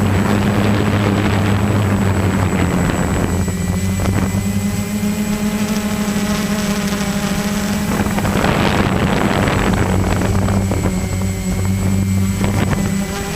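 A motor running at a steady pitch, with a rushing noise that swells twice, in the first few seconds and again past the middle.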